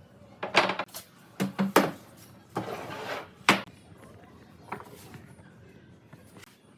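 Sharp knocks and clatters of wooden pieces being handled, with a short scraping sound about two and a half seconds in and a last knock about a second later.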